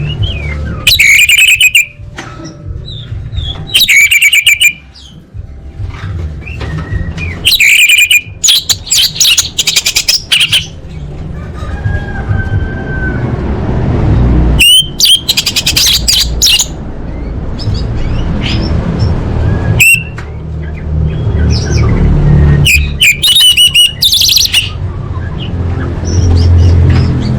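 Orange-headed thrush (anis merah) singing loud phrases of fast chirps and trills, about six bursts with short pauses between, over a low steady hum.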